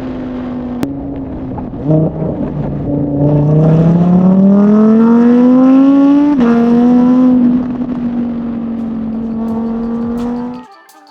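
Lamborghini Huracán EVO's V10 running through a Capristo valved X-pipe exhaust. It runs steadily, then at about two seconds accelerates hard, its pitch rising for about four seconds. A gearshift drops the pitch, it runs steadily again, and the sound cuts off abruptly near the end.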